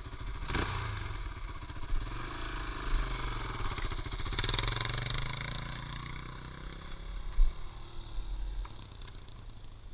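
Dirt bike engine running and revving, its pitch rising and falling, with a few knocks. The loudest is a sharp thump about seven seconds in.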